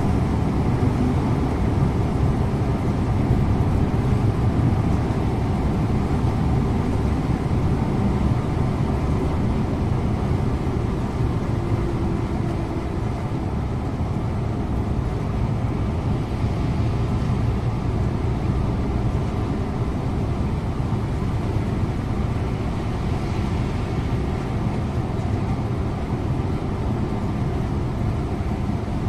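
Scania InterLink bus under way, heard from the driver's seat: a steady low engine drone mixed with road and tyre noise, easing slightly in level partway through.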